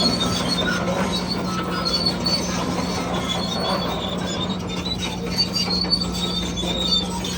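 Bulldozer working: a steady engine hum with intermittent high-pitched squeals from its steel tracks.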